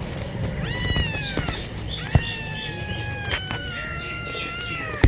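Domestic cat meowing: a short call about a second in, then a long drawn-out meow of about three seconds that slowly falls in pitch, with a couple of sharp clicks during it.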